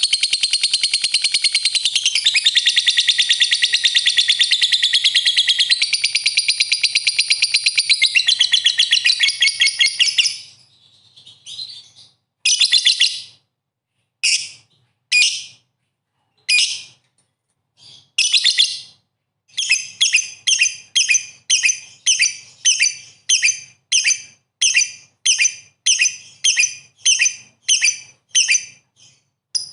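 Lovebird singing: a fast, high, continuous chattering trill for about ten seconds, then a few separate short bursts, then short high chirps repeated evenly about twice a second.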